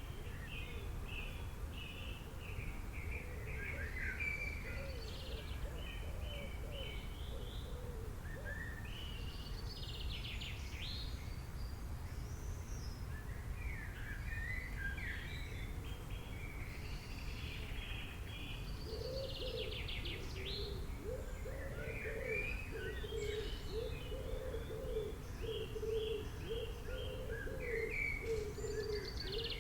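Several birds chirping and trilling in quick repeated phrases over a steady low rumble; about two-thirds of the way in, a lower, wavering call grows stronger alongside them.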